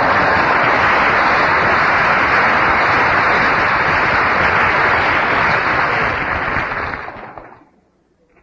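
Audience applauding after a joke, a dense steady clapping that fades away about seven seconds in.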